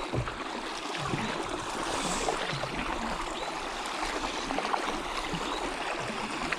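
Kayak paddles dipping and pulling through river water, with irregular small splashes and drips running off the blades.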